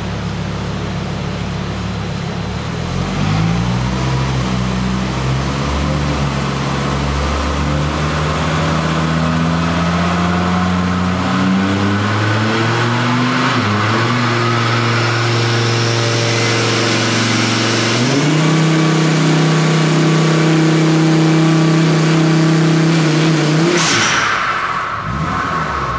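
Volvo 850's turbocharged inline-five engine making a wide-open-throttle pull on a chassis dyno. The pitch climbs steadily for about fifteen seconds, holds level for several seconds, then the throttle is released near the end with a short burst of hiss.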